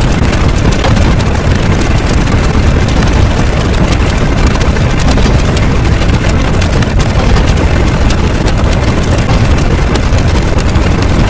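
Loud, steady engine-like rumble with a dense hiss over it, unchanging throughout.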